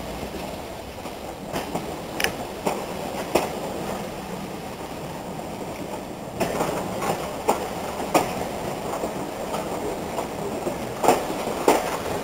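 Heritage train running along the line, heard from on board at an open window: a steady rumble of wheels on rail with sharp clicks as the wheels cross rail joints, coming in loose groups a few seconds apart.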